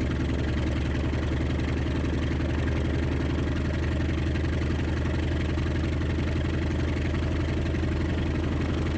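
T-28 Trojan's radial engine idling steadily, an even low beat of firing pulses, with the propeller turning after the run-up checks.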